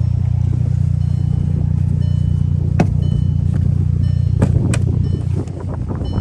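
Volkswagen Passat R-Line engine idling steadily just after a cold start, with the car's warning chime beeping faintly about once a second and a few sharp clicks.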